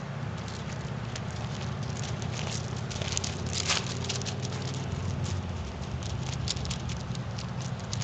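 English Setter puppy paws pattering, with claws clicking irregularly in quick, uneven bursts.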